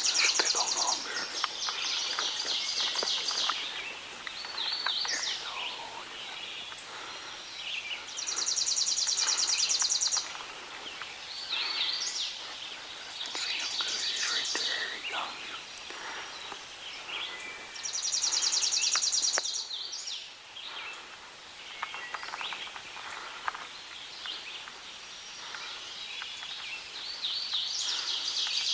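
Songbirds singing in woodland: a fast, dry, high trill lasting a second or two comes back about every ten seconds, with other shorter chirps and whistles between.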